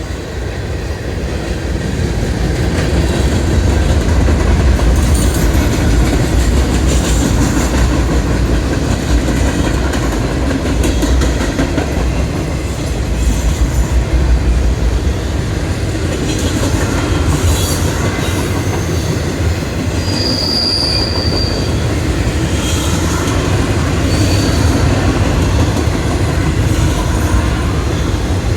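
Single-stack intermodal freight train passing close by, its wheels rumbling and clacking over the rails. A brief high wheel squeal rings out about two-thirds of the way through, with a fainter one a few seconds later.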